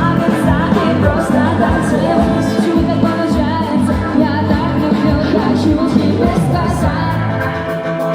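A band playing a pop song with a sung vocal line over a steady drum beat.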